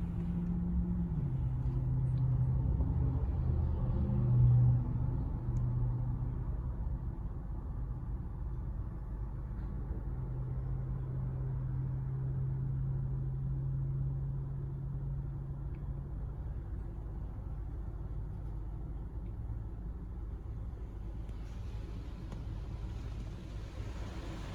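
Steady low mechanical hum and rumble in a D&S IQ 2.0 in-bay automatic car wash, with a brief louder swell about four seconds in. A steady hiss joins in near the end.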